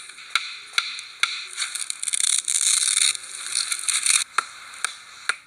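Scraping strokes on wood, about two a second, with a stretch of fast continuous scraping in the middle: the tip of a wooden spear being sharpened.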